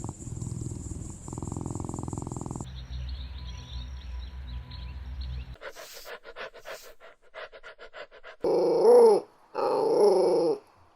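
Small-breed puppies in a run of short clips: low rumbling noise, then a string of quick clicks, then two loud drawn-out puppy cries near the end, each about a second long, rising and falling in pitch.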